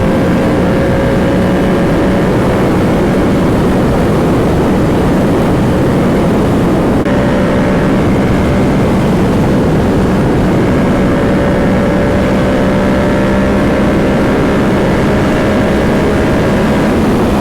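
Yamaha R7's parallel-twin engine running steadily at speed under a heavy rush of wind, its note slowly climbing, with a brief break about seven seconds in.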